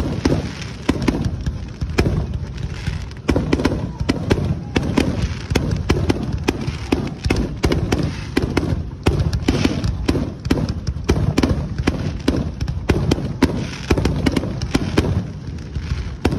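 Aerial fireworks shells bursting in a rapid, unbroken barrage, several booming bangs a second over a continuous rumble.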